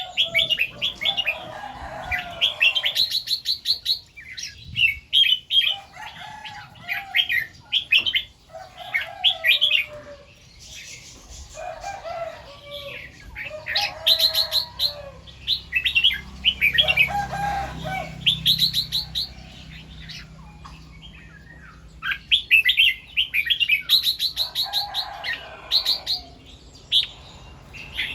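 Red-whiskered bulbul singing short, bright warbled phrases, repeating them two or three times in a row and coming back every second or two. A faint low hum runs underneath for a few seconds in the middle.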